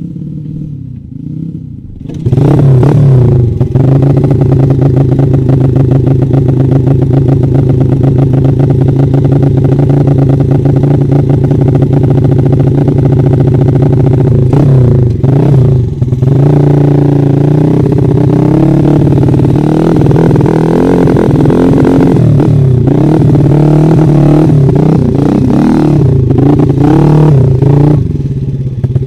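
Trail motorcycle engine running loud under throttle on a dirt track. It comes in suddenly about two seconds in and holds steady revs, with brief drops in throttle, then rises and falls in pitch through the second half.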